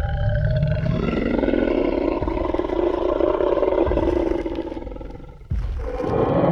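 Tyrannosaurus rex roar sound effect: one long roar with a deep rumble underneath, fading off after about five seconds, then a second roar cutting in abruptly about five and a half seconds in.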